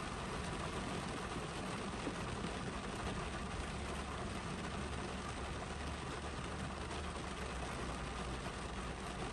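Steady spring rain falling on a parked Honda CR-V's roof and windshield, heard from inside the cabin as an even hiss, with a low rumble underneath that grows stronger about halfway through.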